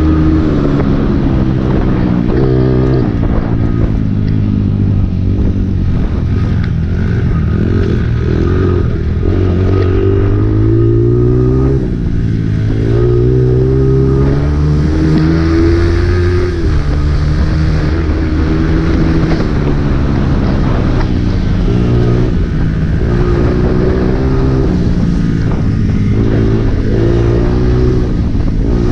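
Honda CRF dirt bike's four-stroke single-cylinder engine ridden hard around a motocross track. Its pitch climbs and drops again and again as the rider opens and closes the throttle and shifts gears.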